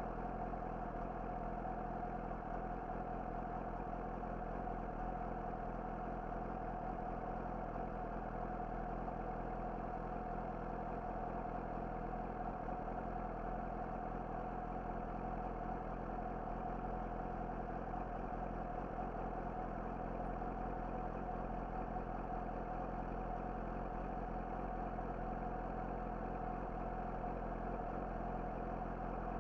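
Yamaha YZF-R6's inline-four engine with an Akrapovic slip-on exhaust, running steadily at one unchanging engine speed with no revving.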